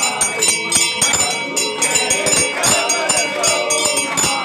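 Temple aarti: metal bells and struck metal ringing in a rapid steady beat, about five strokes a second, under people singing the aarti.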